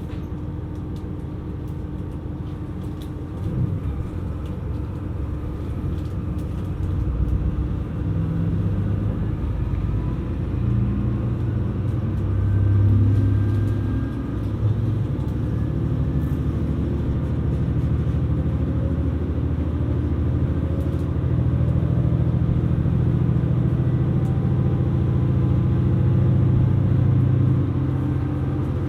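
Running sound of a KiHa 127 series diesel railcar heard from inside the car: the diesel engine hums steadily under power. It grows louder over the first half and gradually rises in pitch as the train gathers speed.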